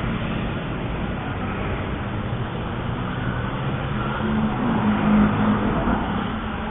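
Steady low rumble of motor traffic, swelling about four to five seconds in as a vehicle passes.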